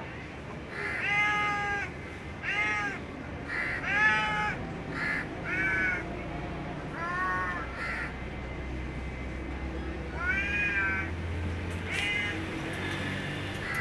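A cat meowing over and over: about nine short meows, each rising and falling in pitch, with brief gaps between them.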